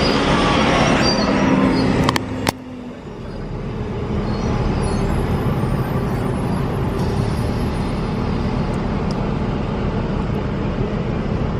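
Steady motor vehicle and road traffic noise. Two sharp clicks come about two seconds in, the noise briefly drops, then it builds back to a steady rumble.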